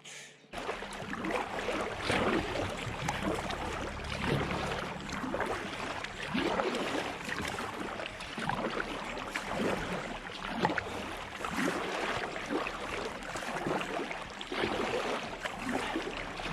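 Water splashing and rushing around a canoe, a busy continuous splashing that starts suddenly about half a second in.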